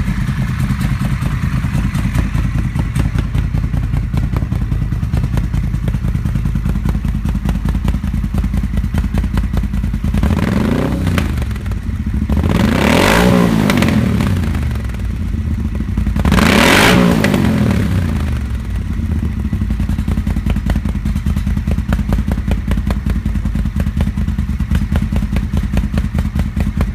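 Moto Guzzi Eldorado 1400's air-cooled 90° V-twin idling through Agostini exhausts with the DB killers removed, blipped three times about a third of the way in, each rev rising and falling back to idle, the first one smaller.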